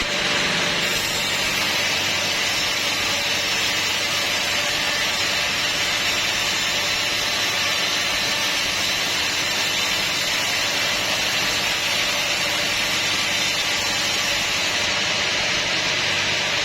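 Sawmill saw cutting through a teak log, a steady, unbroken noise with no change in level.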